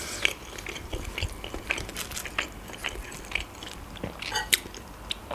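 Close-miked chewing of a mouthful of food, with many small wet mouth clicks and light crunches. A sharper crunch comes about four and a half seconds in.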